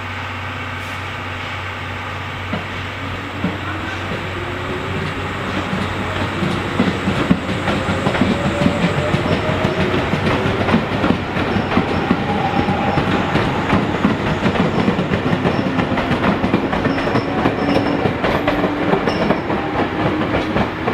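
A train gathering speed on the track, wheels clattering over the rail joints. It grows louder from a few seconds in, with a faint whine slowly rising in pitch.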